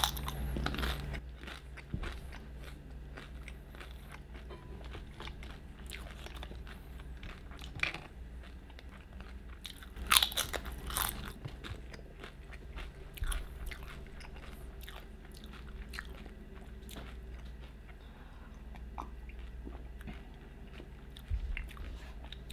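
Close-miked chewing of crunchy tortilla chips: many small crunches and wet mouth clicks, with a louder run of crunches about ten seconds in.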